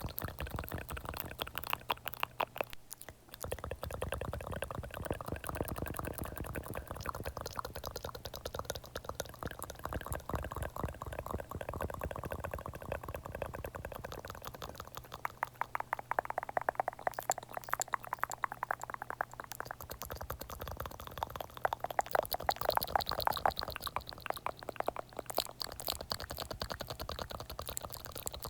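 Close-miked ASMR wet sounds: a continuous stream of rapid, moist clicks and smacks.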